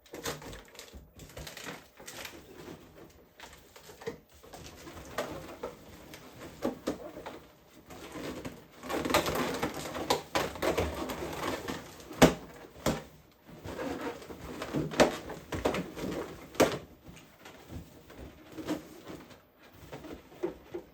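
Latex balloons squeaking and rubbing as a 260 modelling balloon is twisted and worked by hand, with scattered sharp clicks and snaps.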